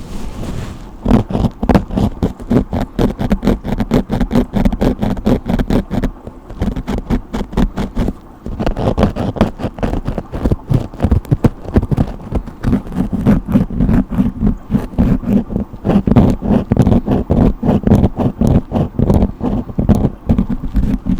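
Brush strokes close to the microphone: fast, repeated scratchy swishes, several a second, pausing briefly about six and eight seconds in.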